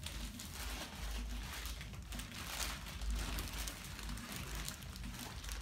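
Packaging rustling and crinkling, with many small clicks and light knocks, as boxes are handled and opened.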